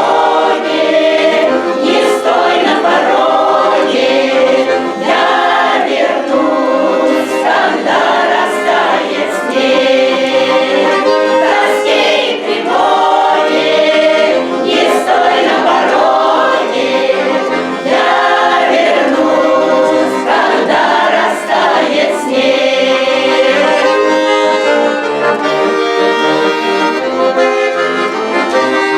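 Folk-song ensemble singing together in several voices over accordion accompaniment. About 23 seconds in, the voices stop and the accordion plays on alone.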